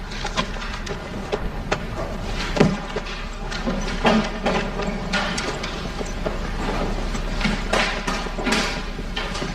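Classroom emptying at the end of a lecture: scattered knocks, clicks and rustling of students packing bags, moving chairs and walking off.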